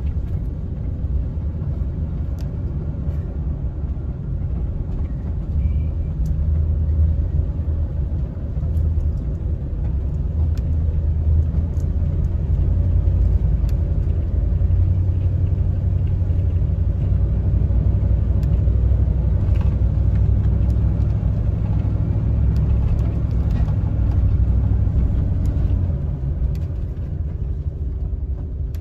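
Cabin noise of a camper van on the move: a steady low engine and road rumble that grows louder about ten seconds in and eases off near the end.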